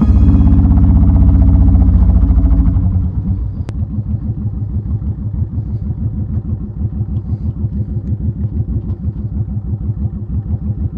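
Honda VTX1800's big V-twin engine running loud, then dropping about three seconds in to a quieter idle with even, pulsing beats.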